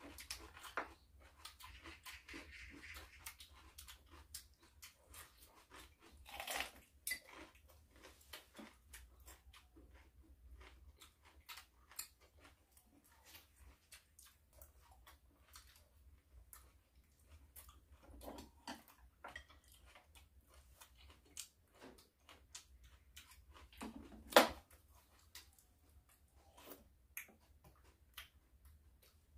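Two people chewing and crunching raw vegetables, cabbage, white kimchi and nuts, with many faint, quick mouth clicks. Two louder crunches stand out, about six seconds in and a few seconds before the end.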